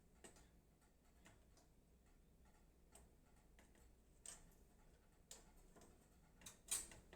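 Near silence with faint, irregular small clicks and taps of hands working thumb screws on a PC case, about seven in all, the loudest near the end.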